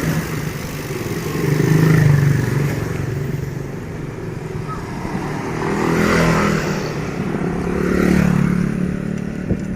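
Motor vehicles passing one after another, engine sound swelling and fading three times, about 2, 6 and 8 seconds in, over steady road noise.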